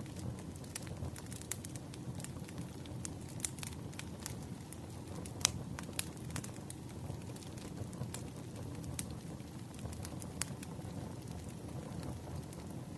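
Wood fire burning with a steady low rumble and frequent irregular crackles and pops, one sharper pop about halfway through.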